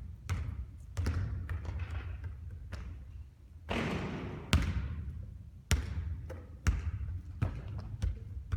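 Basketball bouncing on a court: about ten sharp thuds at uneven intervals, roughly once a second, with short rushes of noise between some of them and a steady low rumble underneath.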